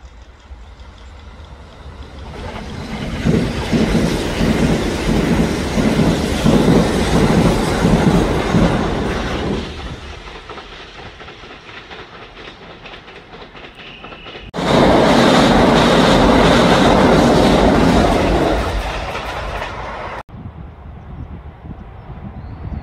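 Train running on rails with a rhythmic clickety-clack of wheels over rail joints, swelling and then easing off. About fifteen seconds in a much louder rush of train noise starts suddenly, fades, and cuts off abruptly.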